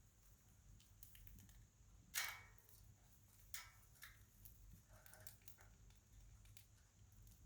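Pet budgerigars moving about, making faint scattered clicks and taps, with one louder sharp click about two seconds in.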